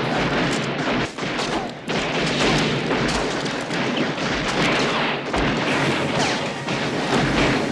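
Several motorcycle engines revved loudly in repeated bursts, a dense, noisy din with sharp blips.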